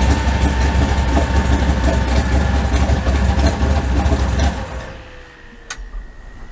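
Big-block Chevy V8 in a mud bog truck idling loudly on fouled spark plugs, then falling away about four and a half seconds in.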